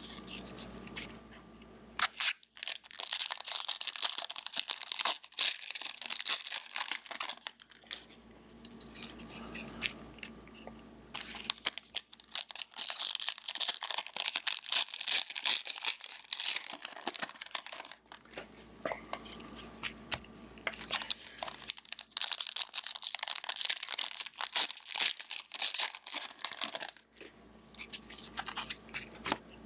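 Trading-card pack wrappers crinkling and tearing as the packs are opened and the cards handled, in spells of several seconds with quieter pauses between.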